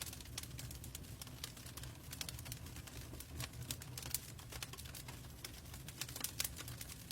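Log fire in a fireplace crackling: a dense, irregular run of sharp snaps and pops over a steady low rumble of the burning logs.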